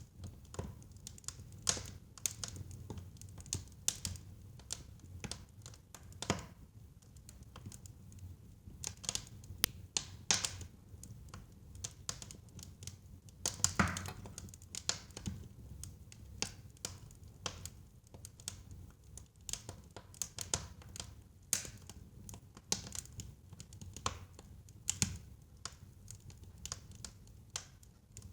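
Wood fire crackling in a fireplace: irregular sharp pops and snaps over a faint low rumble of the burning, with a louder cluster of pops about halfway through.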